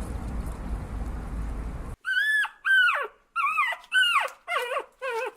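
Steady background noise cuts off about two seconds in, followed by a dog whimpering in a quick run of six short, high cries, each falling in pitch at the end.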